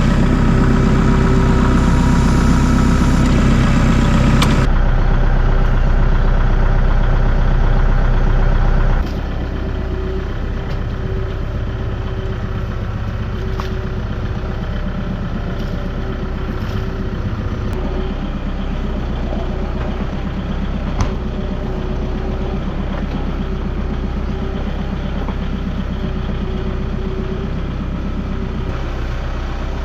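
Farm tractor engine just cranked up, running fast for about nine seconds, then settling to a steady idle.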